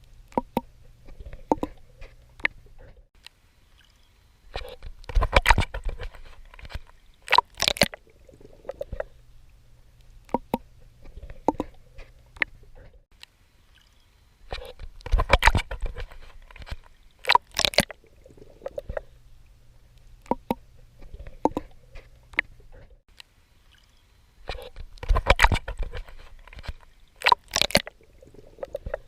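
Swimming in water: clusters of splashing and sloshing from strokes come about every ten seconds, with scattered small clicks and pops between them over a low steady water rumble.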